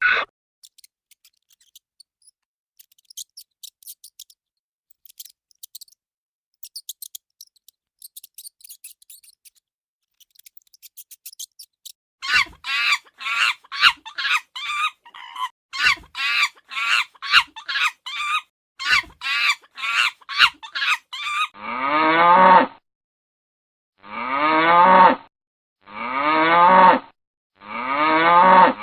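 A sequence of animal sounds: faint, high clicking and chirping for the first dozen seconds, then a run of short calls repeated rapidly, then from about two-thirds of the way in a series of long moos whose pitch falls, one every couple of seconds.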